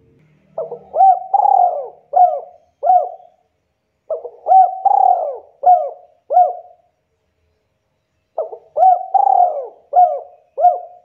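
Spotted dove (tekukur) cooing: three repeated phrases of about five notes each, with a pause of a second or so between phrases.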